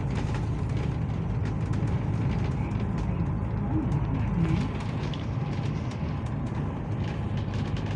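Steady low rumble of a bus's engine and road noise heard from inside the moving bus.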